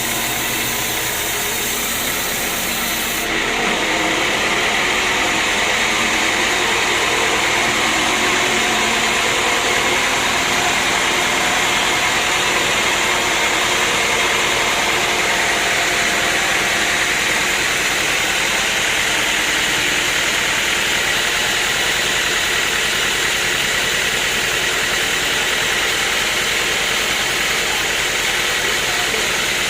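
Sawmill machinery running steadily with a dense, even noise. About three seconds in the sound shifts: the high hiss falls away and it gets slightly louder.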